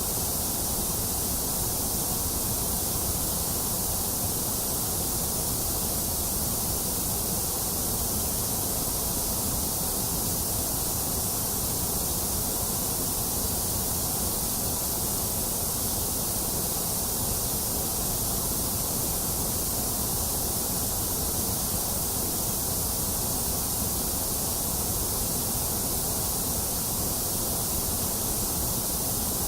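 Steady white noise: an even, unchanging hiss, strongest in the highs and lows and thinner in the upper middle, with no breaks or events.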